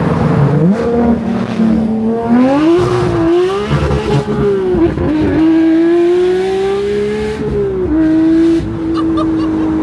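Porsche 992 GT3's 4.0-litre naturally aspirated flat-six being driven hard. The revs climb and drop again several times as it shifts quickly through the gears.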